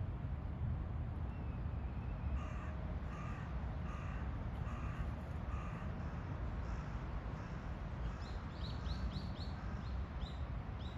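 Birds calling: a series of about seven short calls, each about half a second apart, then from about eight seconds a quick run of high chirps that slide down in pitch, over a steady low background rumble.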